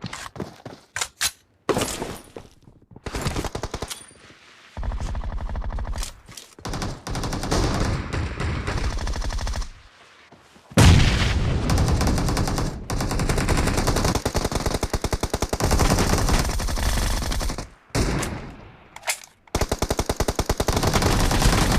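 Video-game automatic gunfire: long bursts of rapid, evenly spaced shots, broken by short pauses.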